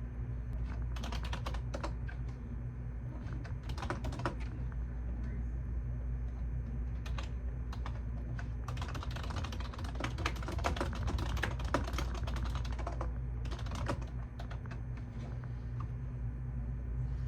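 Typing on a computer keyboard in bursts: quick runs of key clicks about a second in and around four seconds, a longer run from about nine to twelve and a half seconds, and scattered single keystrokes in between, over a steady low hum.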